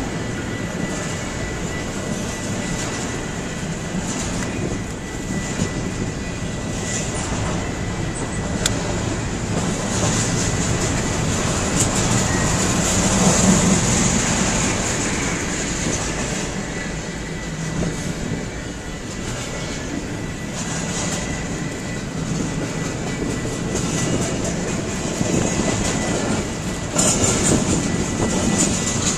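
Intermodal freight train's double-stack container cars, then trailer-on-flatcar cars, rolling past: a steady rumble of steel wheels on the rails with clacking over the joints.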